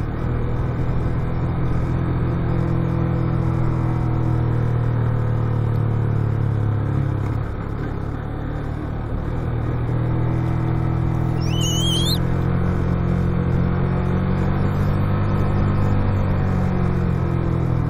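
Motorcycle engine running steadily under wind noise on a downhill ride, easing off for a couple of seconds about eight seconds in and then picking up again. A brief high rising squeal sounds near the middle.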